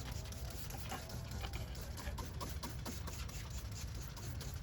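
Scattered light clicks and taps of car parts and tools being handled in an engine bay, over a steady low rumble.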